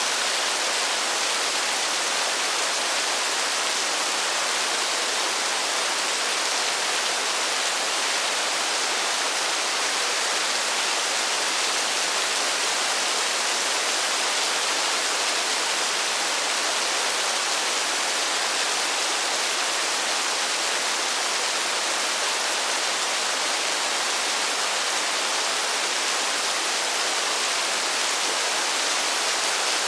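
Heavy rain as a steady, even hiss with no thunder and no single drops standing out. It starts abruptly, replacing a thunderstorm.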